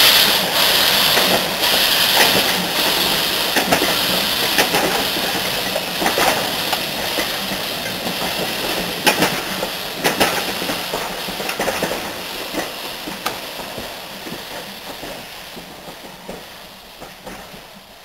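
Steam-hauled train passing and drawing away: a strong steam hiss at the start fades, while wheels click over rail joints in irregular beats, the whole sound growing steadily fainter.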